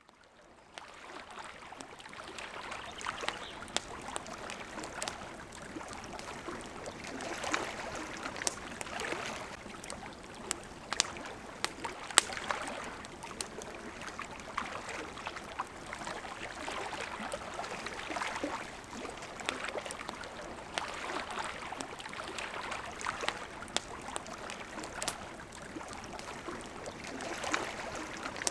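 Water lapping and flowing in gentle swells, with the sharp pops and snaps of a crackling wood campfire scattered through. It fades in over the first second or two.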